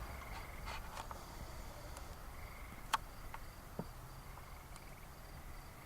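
Crickets chirping faintly in a steady, rapid pulse, with a couple of small clicks.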